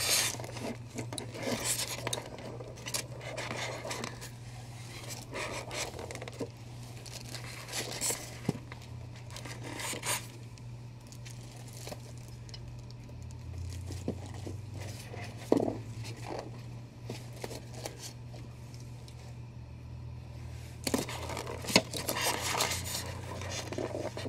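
Statue packaging being handled and unpacked: intermittent scraping, tearing and crinkling of the box and wrapping, with a couple of sharp knocks. A steady low hum runs underneath.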